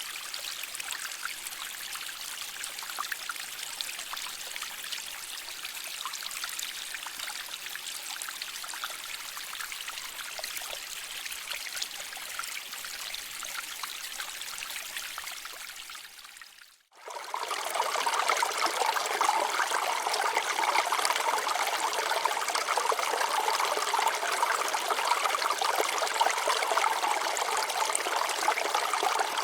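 Shallow stream water flowing and trickling over rocks in a steady rush. Just before halfway through the second half, it fades out briefly and comes back louder and fuller.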